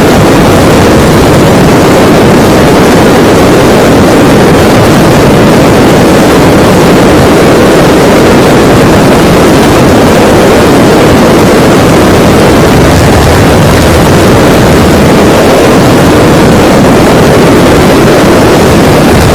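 KTM motorcycle at high speed: a steady, very loud rush of engine and wind noise with no clear engine note.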